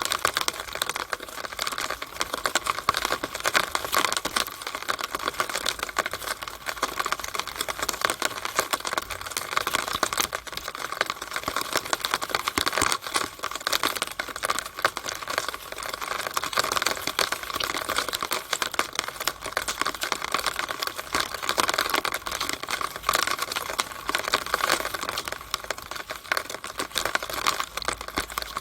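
Rainwater running down a downspout and splashing out of it: a dense, steady patter of many small drops and splashes.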